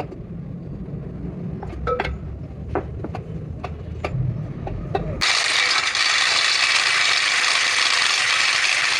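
Metal clicks and knocks over a low hum as parts of a truck's rear axle hub assembly are worked on. About five seconds in, a steady loud hiss starts suddenly.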